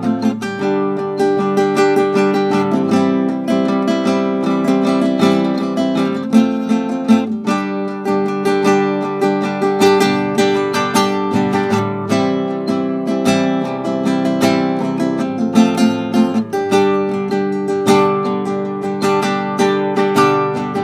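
Acoustic guitar strummed steadily through a chord progression, with no voice: an instrumental break in a slow folk ballad.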